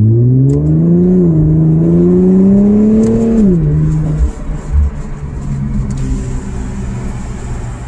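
Infiniti Q50's engine and exhaust under acceleration, heard from inside the cabin. The pitch climbs for about three and a half seconds with a brief dip about a second in. It then drops sharply and settles to a steady lower note.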